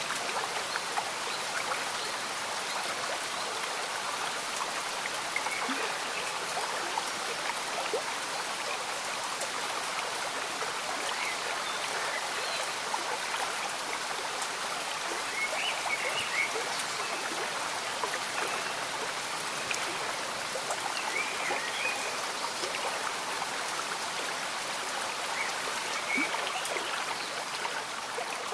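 A small stream bubbling and trickling steadily under gentle rain, with many small drops pattering. A few short chirps come through now and then.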